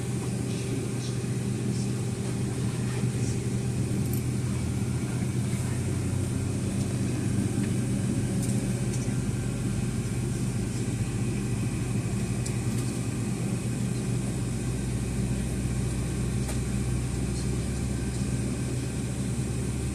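Steady hum inside a Boeing 757-200 cabin on the ground, with engines at idle and air conditioning running; a deeper low rumble builds up about fourteen seconds in, with a few faint ticks and clicks.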